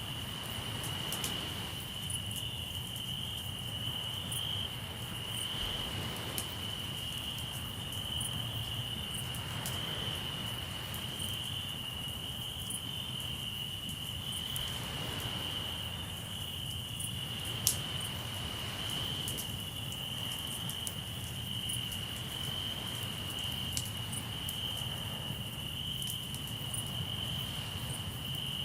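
Crickets trilling steadily at one high pitch, over the crackle of a campfire with scattered sharp pops, one louder pop a little past the middle. Beneath them, a low rumble and slow swells of noise every few seconds from sea waves washing in.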